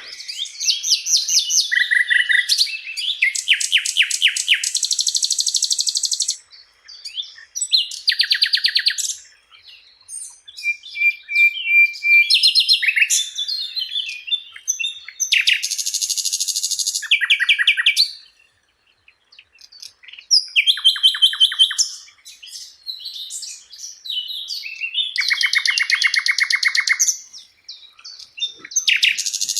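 Sikatan londo, a flycatcher, singing a varied song of fast trills and rapid runs of repeated high notes. The phrases last one to three seconds and are split by short pauses, with a brief steady whistle about halfway through.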